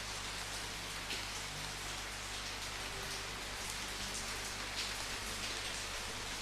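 Steady rain falling on a surface, an even hiss with the patter of individual drops.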